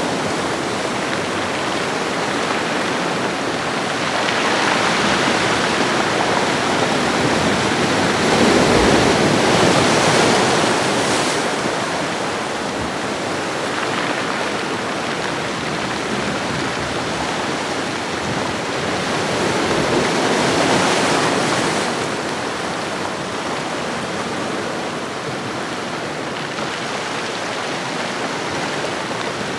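Ocean waves washing on a shoreline: a steady wash of surf that swells and eases slowly, with louder surges a few seconds in, around ten seconds in, and again past twenty seconds.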